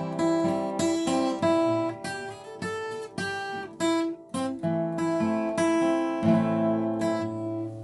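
Acoustic guitar picking a waltz-time arpeggio, no voice, closing on a louder chord about six seconds in that rings and is damped near the end.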